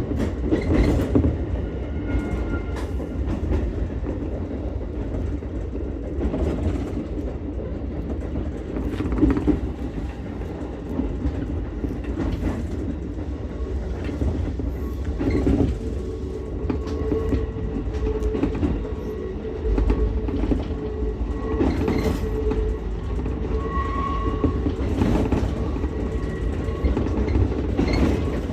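Ichibata Electric Railway 7000-series electric railcar running along the track with a continuous low rumble. The wheels click over rail joints every few seconds, and a steady motor tone comes in for a while past the middle.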